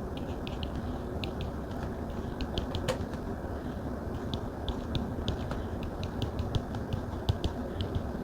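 Stylus pen tapping and writing on a Samsung Galaxy Tab's glass screen: light, irregular clicks, a few each second, over a steady background hiss.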